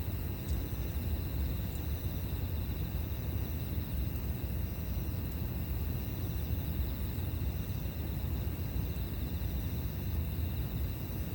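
Campfire burning with a few faint crackles over a steady low rumble, with insects trilling continuously.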